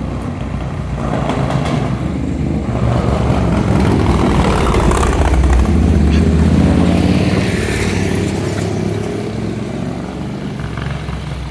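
Triumph Scrambler 1200 XE's parallel-twin engine running through an aftermarket Zard exhaust, growing louder over the first half and easing off toward the end.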